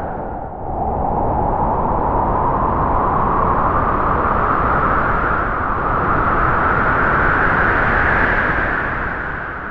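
Strong wind howling in a long gust: a whistling howl over a broad rush that rises in pitch and swells through the middle, then dies away near the end.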